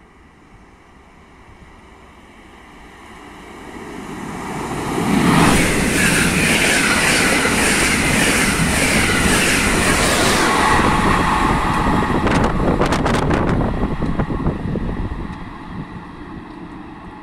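Trenitalia Intercity passenger train running through a station at speed: a rumble builds over a few seconds, then the coaches rush past loudly with a regular clatter of wheels on the rails. A few sharp clicks come near the end, and the noise fades as the train draws away.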